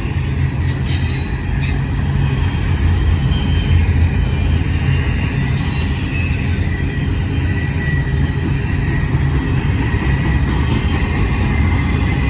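BNSF intermodal double-stack container train rolling by and picking up speed on the downhill grade, a steady low rumble of wheels and cars. A thin high tone runs faintly over it, with a few light clicks about a second in.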